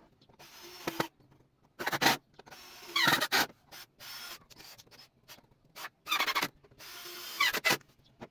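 Hand-worked abrasive strokes on wood, like sanding or rasping: about eight short, irregular rubbing strokes with brief pauses between them.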